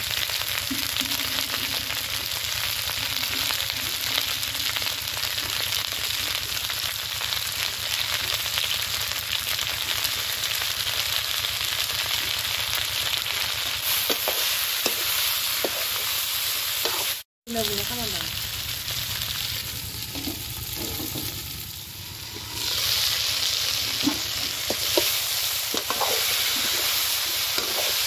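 Diced purple yam and potato sizzling in oil in a metal wok, with a steel ladle scraping and clattering against the pan as they are stirred. The sizzle cuts out for an instant about two-thirds through, is quieter for a few seconds, then comes back louder.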